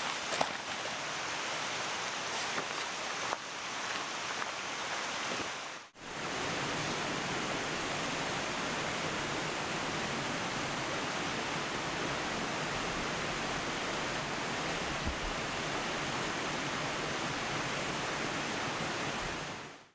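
Mountain stream rushing steadily, with a few small clicks in the first seconds. The sound cuts out briefly about six seconds in, then the water runs on and fades out at the end.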